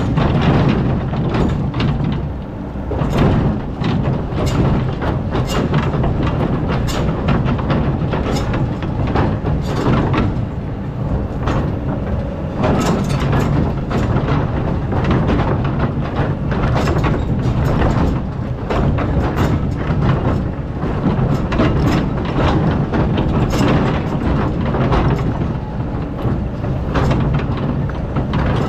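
Excavator's diesel engine running steadily under load while it digs hard-packed sand, with frequent short clanks and scrapes throughout.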